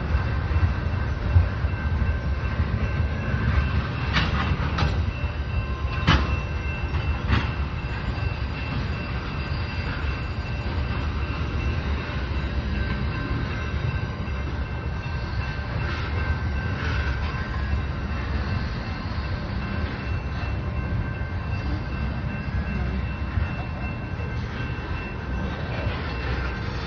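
Oil train's tank cars rolling past on the rails: a steady low rumble of wheels on track, with a few sharp clicks about four to seven seconds in and a faint steady high whine throughout.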